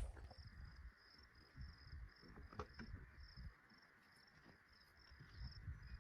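Faint insect chirping, a high pulsed call repeating evenly about two to three times a second, over low irregular rumbling.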